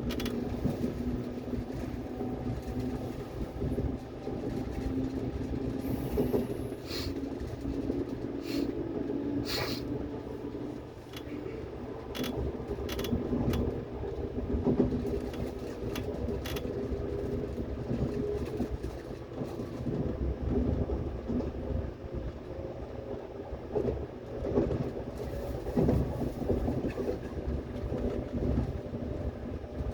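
Seoul Subway Line 8 train running on the track: a steady rumble of wheels on rail with a humming motor whine. Between about six and seventeen seconds in there is a run of sharp clicks and clacks from the wheels passing over rail joints or points.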